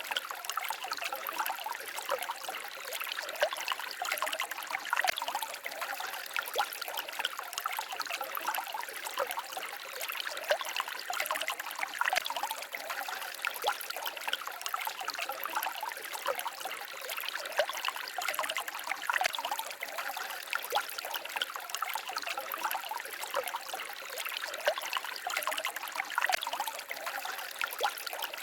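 Small stream babbling and trickling steadily, a constant rush of water flecked with many small splashes and gurgles.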